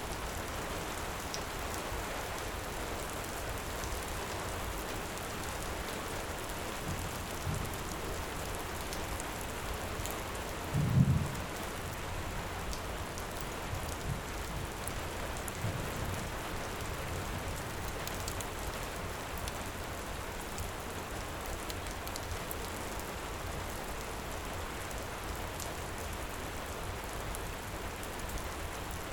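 Heavy rain pouring steadily, with a few faint crackles from a wood fire. Low thunder rumbles come several times in the first half, the loudest about eleven seconds in.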